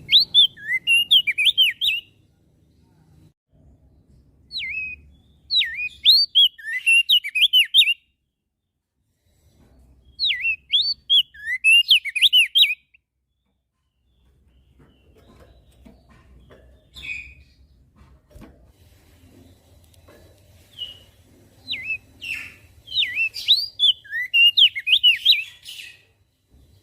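A crested white-eye (opior jambul) singing in bursts of quick whistled notes that sweep up and down. There are four phrases, each lasting a few seconds, separated by pauses.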